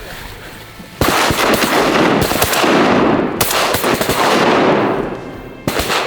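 A volley of shotgun fire: several guns shooting rapidly over one another, starting suddenly about a second in, easing off, then a fresh burst near the end.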